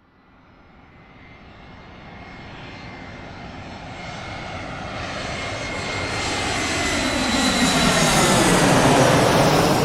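Airplane approaching and passing close overhead: its engine noise swells steadily out of silence, with a steady high whine over it, and peaks near the end before it starts to fade.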